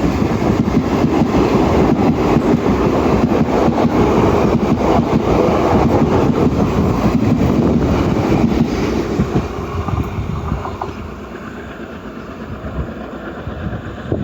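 Passenger train running past, its wheels rumbling and clattering over the rail joints. The noise drops away about nine seconds in as the train moves off.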